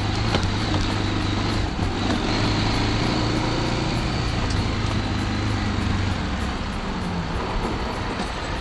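Adventure motorcycle's engine running steadily under way, with wind rush over the microphone; the engine note eases off a little near the end.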